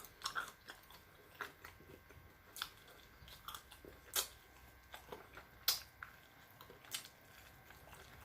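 Close-miked eating: biting and chewing food with irregular crisp crunches and mouth clicks, the loudest about four and five and a half seconds in.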